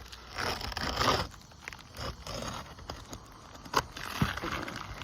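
A replacement roofing shingle being trimmed to length: rough scraping, tearing cutting strokes, the longest about a second in, followed by two sharp clicks near the end.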